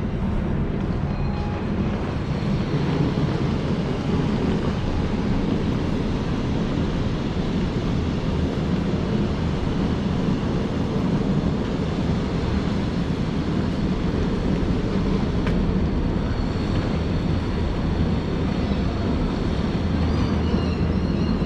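Steady, loud, low rumbling noise of a running vehicle or machinery.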